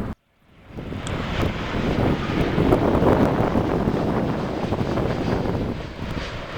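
Jet airliner passing. The engine rumble fades in after a brief dropout to silence, swells to its loudest about three seconds in, then eases off slightly, with wind buffeting the microphone.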